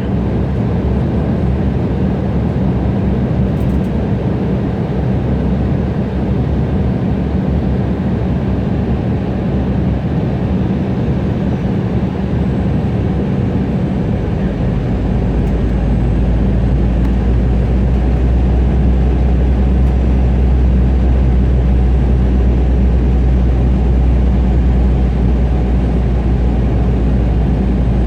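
Steady cabin noise of an Embraer E175 airliner in flight: the GE CF34 turbofans and the airflow over the fuselage, with a low drone. About halfway through, a deeper rumble sets in and holds.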